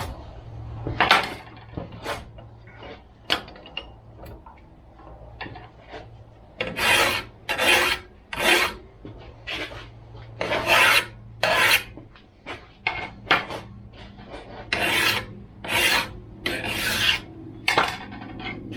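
Metal file rasping along the rails of a Shindaiwa 488 chainsaw guide bar, dressing down the worn, flattened edges where metal has been pushed out. Light scattered scrapes at first, then strong strokes at about one a second from about six seconds in.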